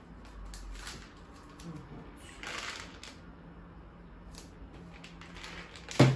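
Light rustling and small clicks of label stickers and plastic storage containers being handled, with a brief crinkle in the middle and one sharp knock near the end as something is set down.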